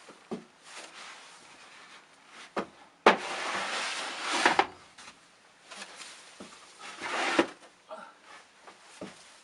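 Snow shovel scraping through snow, twice. The first long scrape starts with a sharp knock of the blade about three seconds in, and a second scrape comes a little after the middle.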